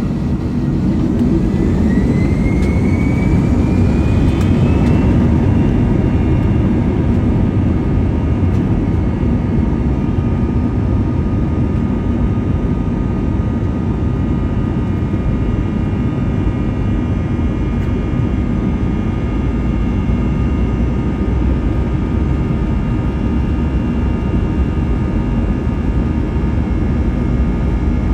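Jet engines of an Airbus A321 spooling up, heard from inside the cabin: a whine rises in pitch over the first few seconds as the noise grows, then the engines hold a steady roar at high thrust, typical of the start of the takeoff roll.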